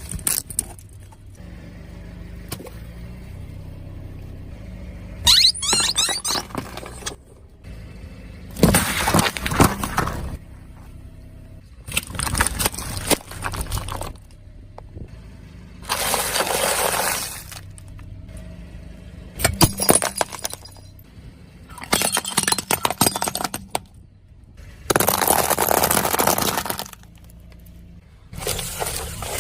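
A series of sudden bursts of breaking and shattering, about eight, one every three to four seconds, each lasting a second or two, with a low steady hum between them.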